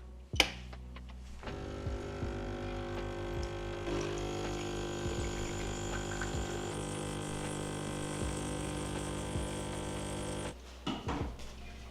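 A small electric motor hums steadily, starting about a second and a half in and cutting off about a second before the end, with a couple of knocks just before it starts.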